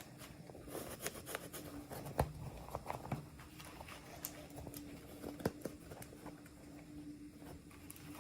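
Hands handling small plastic toy packaging and pieces: scattered light taps and clicks, the sharpest about two seconds in and again past the middle, over a faint steady hum.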